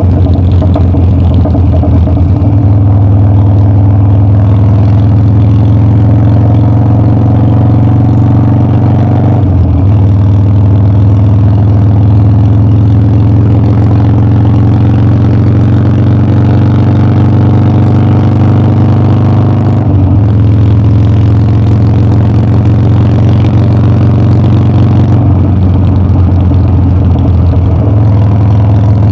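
Harley-Davidson Dyna's V-twin engine running loud and steady under way. Its pitch climbs slowly between short breaks about 9 and 20 seconds in, as at gear changes, and it changes again near the end.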